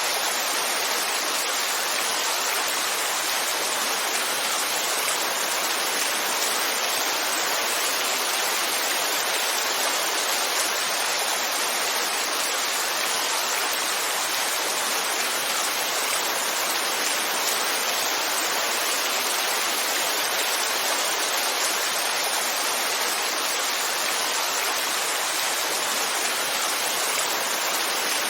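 Heavy rain falling steadily as a dense, even hiss, with no single drops or thunder standing out.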